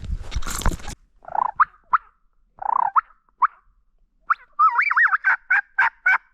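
About a second of rustling, then turkey calls: a few short yelping notes, and from about four seconds in a loud, rapid rolling gobble.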